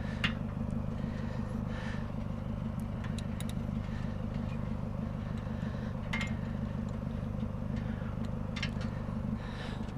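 Steady low hum of a vehicle's engine and road noise from inside the cabin, with a few faint clicks and rattles.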